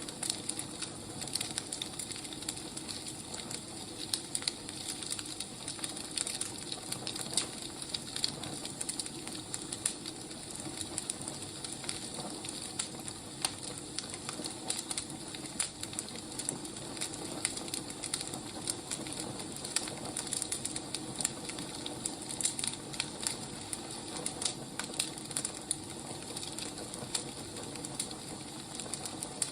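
Wood fire burning, crackling steadily with many small irregular snaps over a soft hiss.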